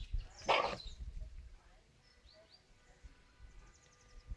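Birds chirping faintly in the background, with a short loud burst about half a second in whose source is not clear.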